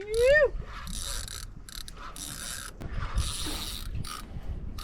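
Fishing reel ratcheting and whirring in short repeated bursts while a hooked giant trevally is played on the line, with a short rising voice right at the start.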